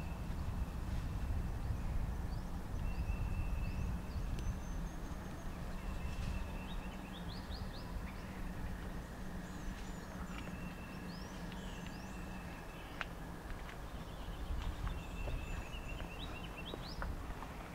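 Wild birds chirping and calling, with short rising chirps and a held high whistle that recurs every few seconds, over a steady low rumble. A few sharp clicks near the end.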